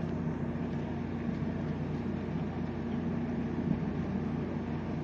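Steady low mechanical drone with a faint constant hum, unchanging throughout.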